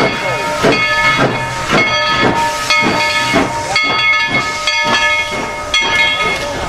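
Steam locomotive working, its exhaust chuffing about twice a second under a steady hiss of steam and a high, steady whistle-like tone.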